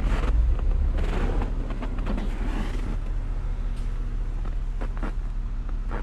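Vehicle engine idling close by, a steady low hum, with crunching footsteps on snow about once a second in the first few seconds.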